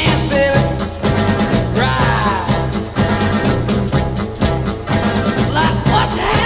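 Sixties rock recording in an instrumental passage without singing: a full band playing over a steady beat, with gliding pitched notes about two seconds in and again near the end.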